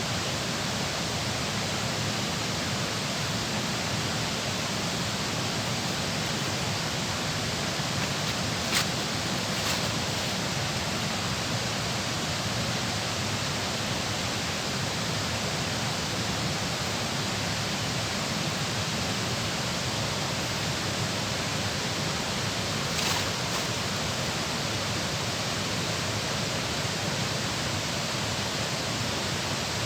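Steady rushing of water pouring through a dam, an even roar with no change. Two faint short clicks come through it, about nine seconds in and again around twenty-three seconds.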